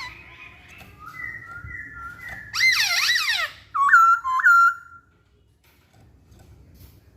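Masked laughingthrush (poksay Hongkong) singing a phrase of loud whistled notes that swoop up and down, ending with two sharp upward notes about four and a half seconds in.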